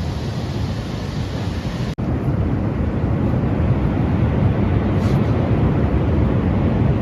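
Strong night wind at about 10 metres a second, rushing and buffeting the microphone in a steady loud roar. There is a split-second break about two seconds in, after which it runs a little louder.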